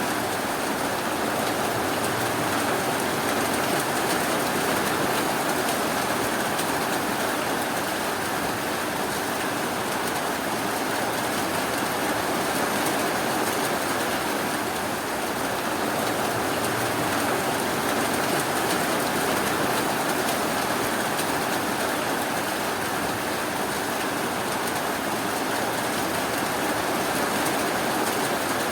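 Rain falling steadily, an even, unbroken hiss of many drops.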